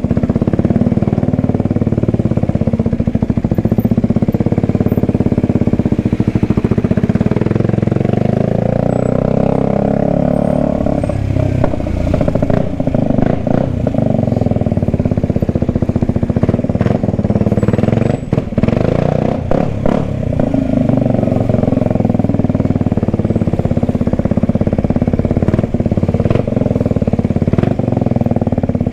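Kawasaki Ninja 125's single-cylinder engine running steadily, its note shifting around ten to twelve seconds in. A few sharp knocks come through around twelve and eighteen seconds in.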